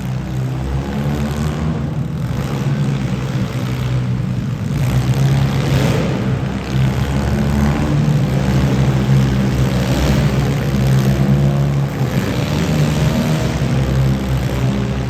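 Demolition derby cars' engines running loudly together, a steady low drone of several layered engine notes that shift slightly in pitch as the drivers work the throttle.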